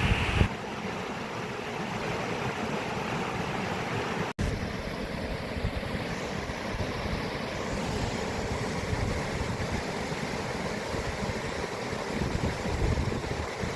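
Steady rushing water with wind buffeting the microphone. The sound changes abruptly about half a second in and cuts out for an instant a little after four seconds, as at an edit.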